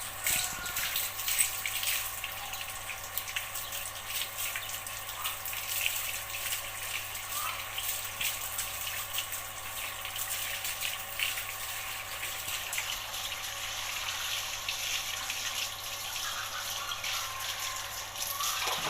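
Water running and splashing, broken by many small irregular splashes and drips, as a dog is washed, with a faint steady hum underneath.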